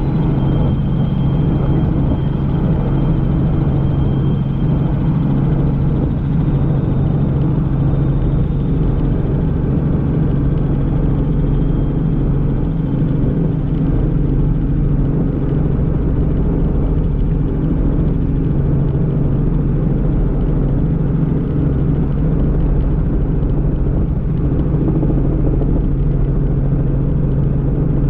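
Helicopter in cruising flight, heard from inside the cabin: a loud, steady drone of rotor and engine with a constant low hum over rumble.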